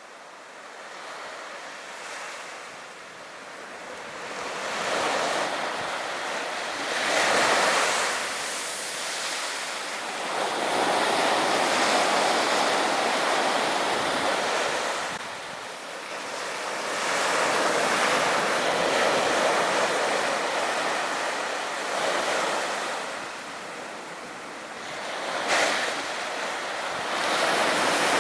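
Sea waves breaking and washing onto a beach, the surf swelling and fading in surges every several seconds, with wind on the microphone. A brief sharp sound stands out near the end.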